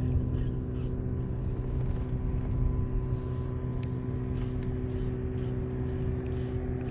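A steady low engine or machinery hum that holds one pitch without rising or falling, with a few faint light ticks over it.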